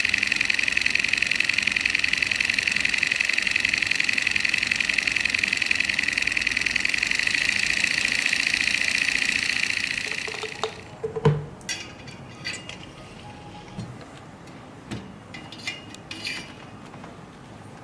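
A small model engine running fast and steady with a high buzzing whine, stopping about ten seconds in. A few light clicks and taps follow.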